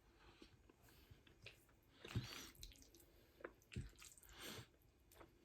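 Faint wet eating sounds: quiet chewing and mouth smacks with scattered small clicks, and two louder smacks about two and four seconds in.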